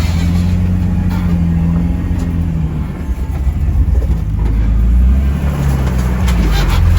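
Off-road vehicle's engine running at low speed, heard from inside the cab while crawling a trail. Its note holds steady for the first few seconds, then the low rumble grows a little louder near the end.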